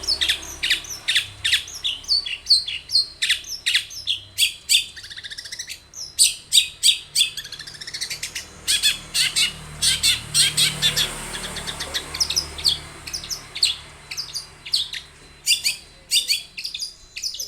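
Long-tailed shrike (cendet) singing vigorously: a fast run of sharp chirps and whistled notes, several a second, broken by short pauses.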